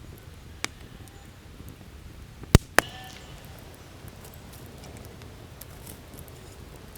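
Three sharp wooden knocks of kindling being chopped for a campfire: a single knock early on, then two in quick succession a little past the middle, the first of that pair the loudest.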